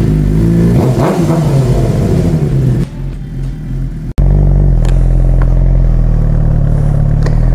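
2007 Suzuki GSX-R 600's inline-four, fitted with an aftermarket exhaust, running at a standstill, its note rising and falling about a second in. About four seconds in, the sound cuts to the rider's helmet mic on the move, the engine running at a steady pitch.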